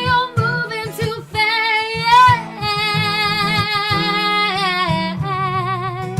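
A woman singing long, wordless held notes and runs with vibrato, over acoustic guitar.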